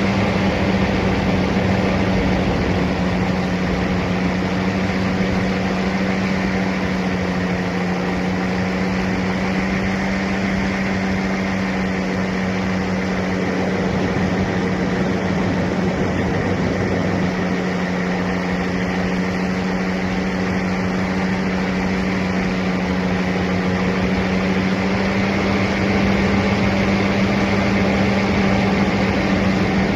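Paramotor engine running at a steady, unchanging pitch, with a constant rush of noise behind it.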